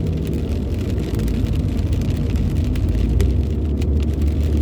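Steady low rumble of a car driving on a rainy road, engine and tyre noise heard from inside the cabin, with scattered faint ticks.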